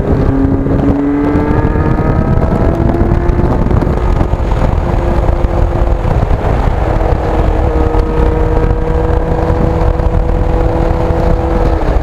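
Yamaha FZR sport bike's inline-four engine heard while riding, pulling away with its pitch rising over the first few seconds, then running at a steady cruise with a small change in pitch about seven seconds in.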